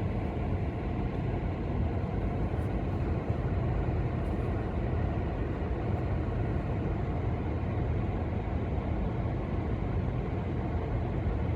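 Gale-force wind rumbling steadily on the microphone over the continuous roar of large waves breaking on the lake shore, with no single crash standing out.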